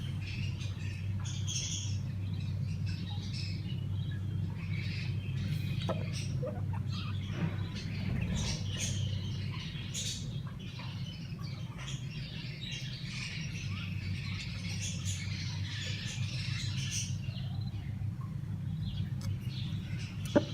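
Budgies chirping and twittering in many short high calls over a steady low hum.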